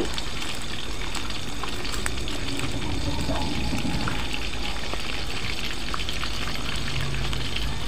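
Pieces of snakehead fish frying in hot oil: a steady sizzle with scattered small crackles, the fish being fried dry before spices go in.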